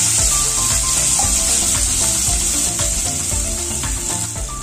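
Crushed ginger and garlic frying in hot oil in a pan, a steady high sizzle, with a wooden spoon stirring and scraping through it.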